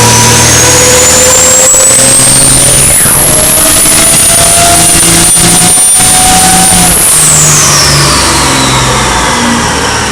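Cummins 12-valve six-cylinder diesel drag truck pulling hard on a chassis dyno, fuelled only and running on five of its six cylinders. A high turbo whistle climbs steadily over the engine, holds at its peak, then falls away about seven seconds in as the throttle comes off.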